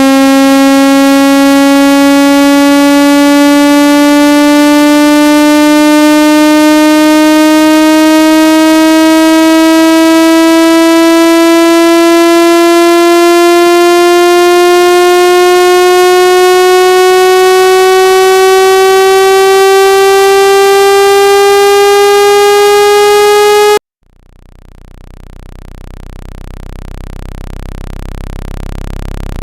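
Synthesized speaker-cleaning tone for shaking water out of a phone speaker: a loud buzzy tone that slowly rises in pitch, then cuts off suddenly near the end, after which a deep low hum swells in.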